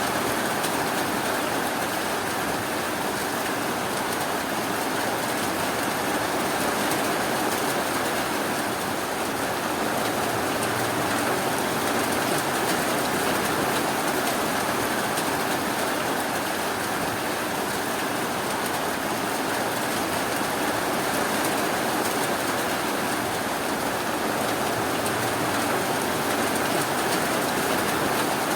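Steady rain falling, an even, unbroken hiss with no separate drops, knocks or thunder standing out.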